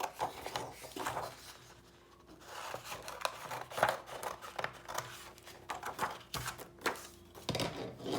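Scissors snipping through cardstock in irregular cuts, with the paper rustling as it is handled, a brief pause about two seconds in.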